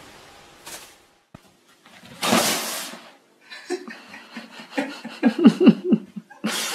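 A loud rustle about two seconds in, then a person laughing in quick bursts that grow louder toward the end.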